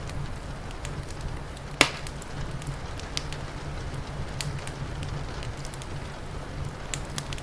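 Wood fire crackling, with scattered sharp pops and one louder pop about two seconds in, over a steady low rumble and the hiss of rain.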